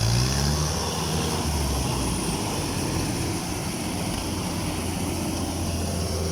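Yanmar DC105X rice combine harvester's diesel engine running steadily, with a brief rise in engine pitch at the start.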